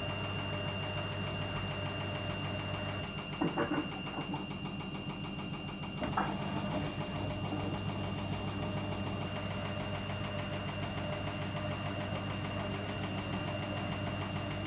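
Logik L814WM16 washing machine running with a steady grinding, rattling noise over a constant hum, which the owner calls an awful grinding sound. There is a short shift in the noise about three and a half seconds in and again at about six seconds.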